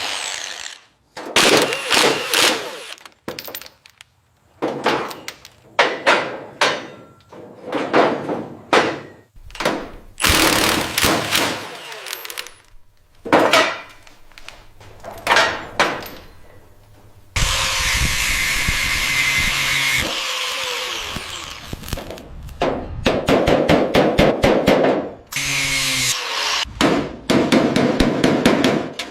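Power tools and other workshop tool noise in a string of short bursts that start and stop abruptly, with a longer steady run of one tool a little past the middle.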